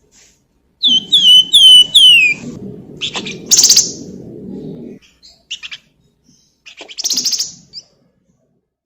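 A flamboyan songbird singing. About a second in it gives a run of five quick, clear whistled notes, each sliding down in pitch, then bursts of harsh, rapid chattering about three and a half seconds in and again near the end.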